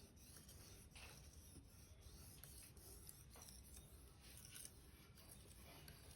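Faint scraping strokes of a Victorinox knife blade against a sharpener, a few scattered strokes over near silence.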